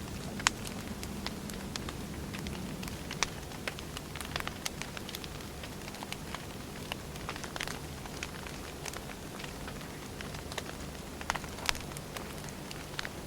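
Wood fire crackling: firewood logs burning with irregular sharp pops and snaps over a low, steady rumble of the flames.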